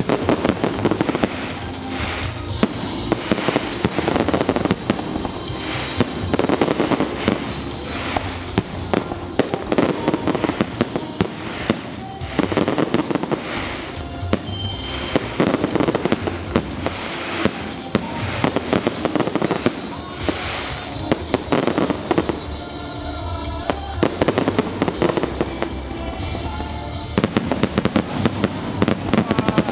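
Fireworks display finale: a dense, continuous barrage of shell bursts and crackling with no break.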